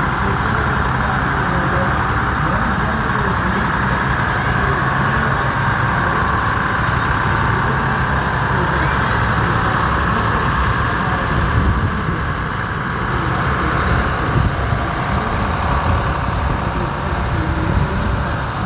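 Tractor engines running steadily, with a low pulsing engine beat.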